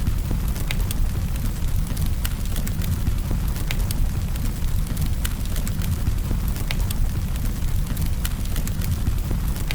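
Campfire burning: a steady low rumble of the flames with irregular sharp crackles and pops from the wood, a couple each second.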